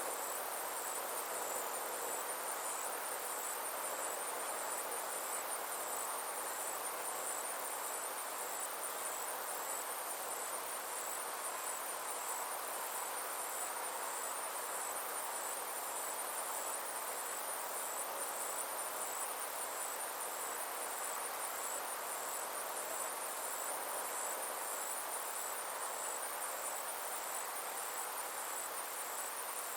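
Summer insects trilling: a steady high-pitched chirring with a fine rapid pulse, over a soft even hiss of background noise.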